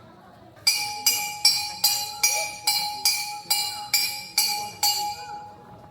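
Eleven evenly spaced bright metallic strikes, about two and a half a second, each ringing over a steady held tone; they start about half a second in and stop shortly before the end.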